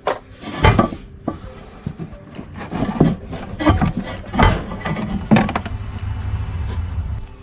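Hands working on a mower's control panel: irregular knocks, clunks and scraping of parts being handled and pried apart. A low rubbing rumble runs for the last couple of seconds.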